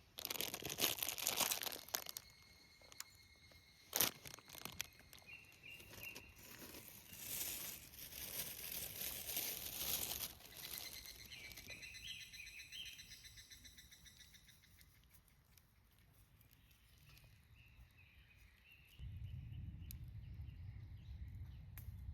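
Crinkling and rustling of something being handled, in two spells, with a sharp click about four seconds in. Birds chirp faintly in between, and a low rumble comes in near the end.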